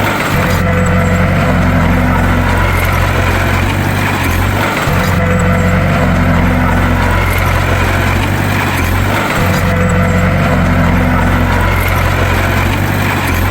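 Bulldozer engine running with a steady low drone. The same pattern repeats about every four and a half seconds, like a looped recording.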